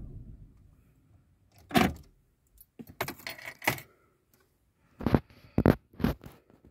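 Audi A6 C6's 2.0 TDI (BRE) four-cylinder diesel switched off, its running note dying away in the first half second. Then several short bursts of clicks and a jangle of keys, the loudest of them about two seconds in and near the end.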